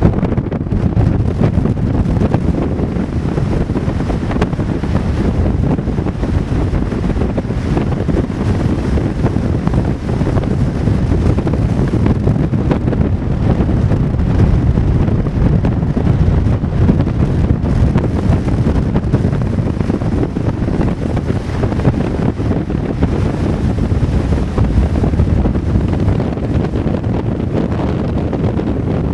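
Strong wind buffeting the microphone: a loud, steady low rumble with constant fluttering gusts.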